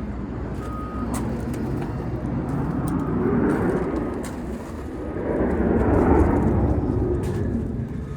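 Jet aircraft passing overhead: a rushing roar with a deep rumble that swells twice, louder the second time, then fades.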